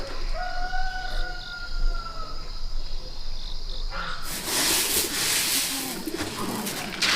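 A rooster crowing once, a single long call held for about two seconds. From about four seconds in, a steady hiss-like noise takes over.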